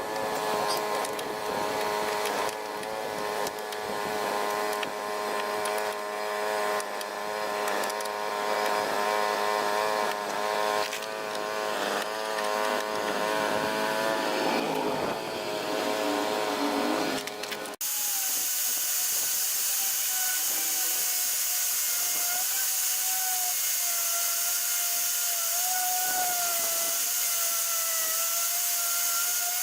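Electric power tool running with a steady whine and many sharp scraping clicks against metal. About two-thirds of the way through, an abrupt cut brings in a different tool sound: a higher whine that wavers slightly in pitch over a steady hiss.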